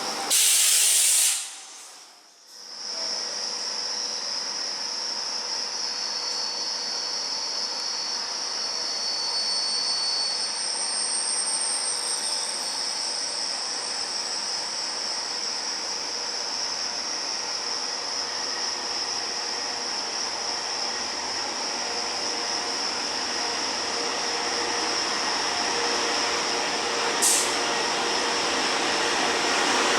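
A train at a station: steady rail noise with a strong high hiss and faint high-pitched wheel squeals, after a short loud burst near the start.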